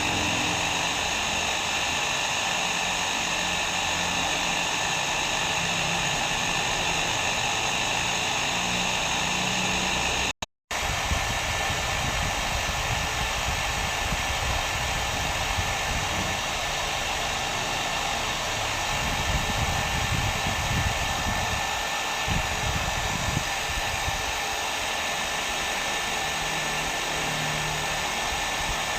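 Hair dryer blowing steadily, a dense whooshing noise with a faint high whine in it. It cuts out completely for a split second about ten seconds in, then carries on.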